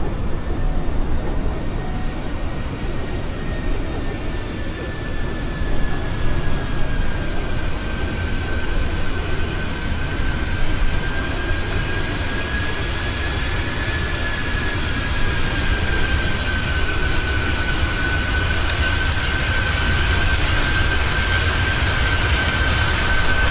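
Aircraft engines running through a landing, a steady high whine over a low rumble, growing slightly louder near the end.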